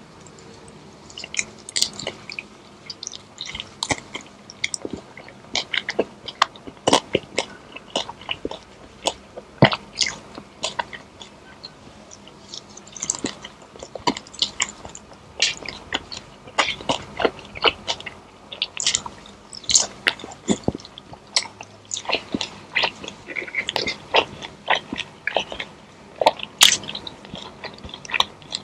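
A person biting and chewing crunchy food close to the microphone: many irregular, sharp crunches.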